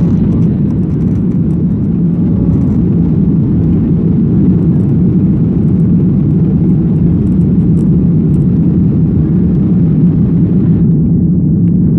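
Boeing 737-800's CFM56-7B turbofan engines running at high thrust during take-off or climb, a loud, steady noise that sits low in pitch.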